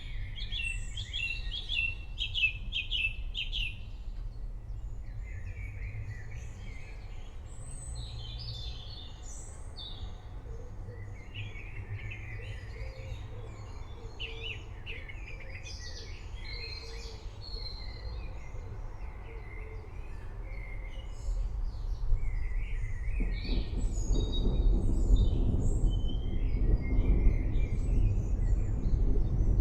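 Several birds singing and chirping over the low rumble of distant thunder. The thunder grows louder about three quarters of the way through.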